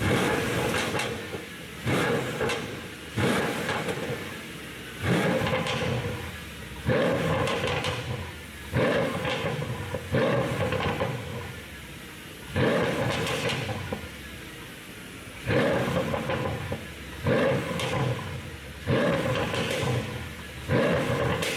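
Mercedes-AMG S63's twin-turbo V8 being revved in short blips, about a dozen times, each rev falling away over a second or so with exhaust pops and crackles on the overrun from a pop-and-crackle tune.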